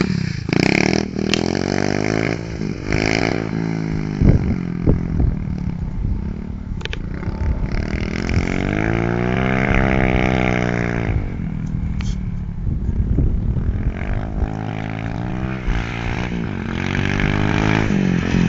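Pit bike's small single-cylinder engine being ridden hard, its note climbing and falling again and again as the throttle is opened and closed, with one long rise and fall about halfway through.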